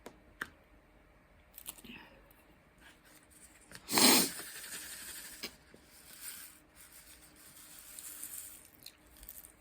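Small clicks and taps of diamond-painting handwork: a wax-tipped pen picking up and pressing resin drills onto the canvas. A loud, brief rustling scrape about four seconds in is followed by a few seconds of soft rustling.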